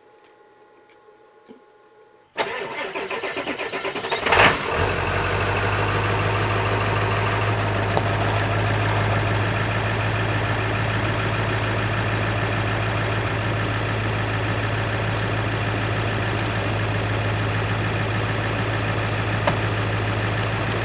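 Truck engine cranked by its starter about two seconds in, catching with a short burst a couple of seconds later, then idling steadily.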